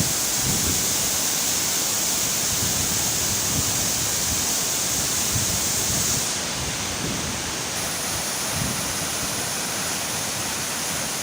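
Waterfall: a steady rush of falling water, a little quieter from about six seconds in.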